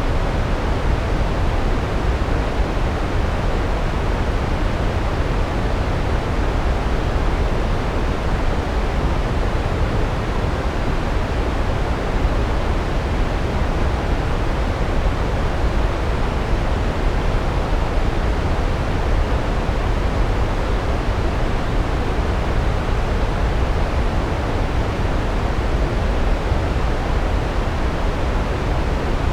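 Large waterfall: a steady, loud rush of falling water, deepest at the bottom and unchanging throughout.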